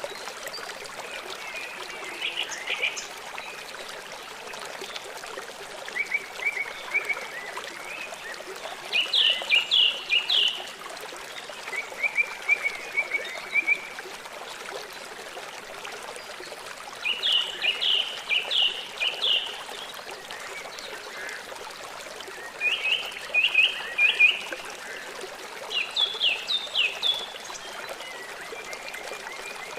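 Small songbirds singing short phrases of quick repeated notes, one phrase every few seconds, the loudest about nine seconds in. Under them runs a steady trickle of flowing water.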